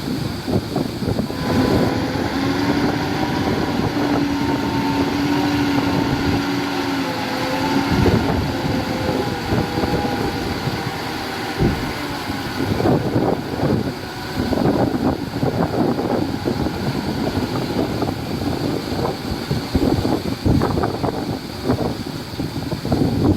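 Diesel engine of heavy earthmoving machinery running, with a steady engine tone from about two seconds in until about twelve seconds, over wind buffeting on the microphone.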